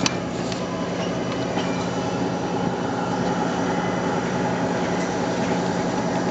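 Passenger train car rolling along the rails, heard from inside the coach: a steady rumble and rail noise with a steady low hum, and one sharp click right at the start.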